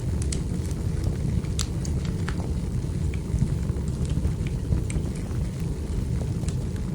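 Wood fire crackling: scattered sharp pops and snaps of burning logs over a steady low rumble of the flames.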